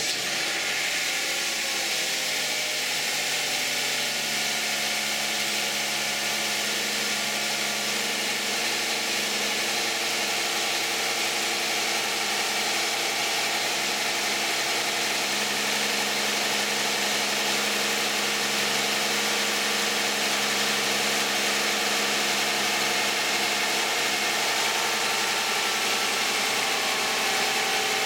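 A 2010 Toyota Camry's 3.5-litre V6 with 93,000 miles idles steadily just after a cold start, heard close up from the open engine bay. Its pitch eases down over the first few seconds as the fast cold idle settles, then stays even.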